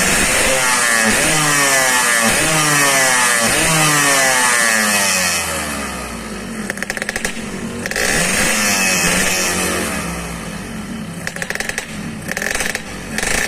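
Motorcycle engine breathing through a gutted stock muffler, revved in quick repeated throttle blips, each a short rising whine, then dropping to a lower, rougher running with a few crackles near the end. The owner judges that, with a 27.5 pilot jet and 195 main jet, the revs still don't rise enough.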